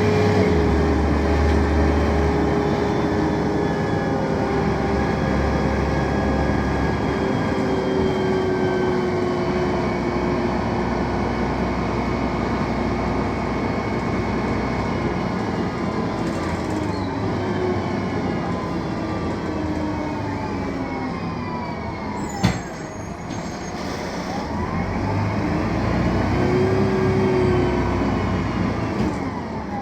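A BredaMenarini M 240 LU city bus's Mercedes-Benz OM 906 LA six-cylinder turbodiesel running under way, its note slowly falling as the bus slows. A sharp click comes about three quarters of the way through, then the engine note rises and falls again as the bus pulls away and shifts.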